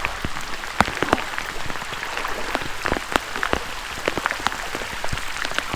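Heavy rain falling, a steady hiss with many sharp separate drop hits close by.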